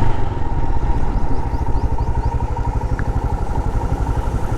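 Motorcycle engine running under way with a rapid, even pulsing beat, easing off a little in the second half.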